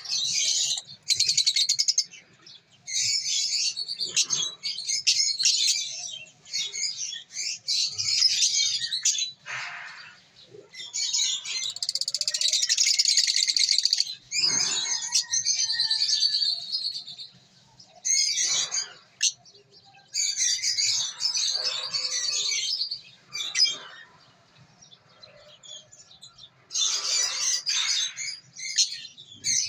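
Young aviary bird chicks chirping in rapid, high-pitched bouts of one to a few seconds, with short pauses between.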